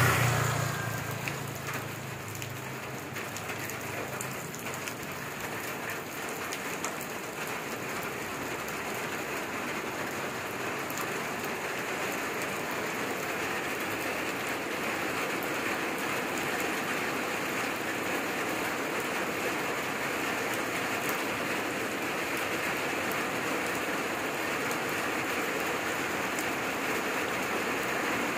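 Heavy rain falling steadily, slowly getting a little louder. A low rumble fades away in the first two seconds.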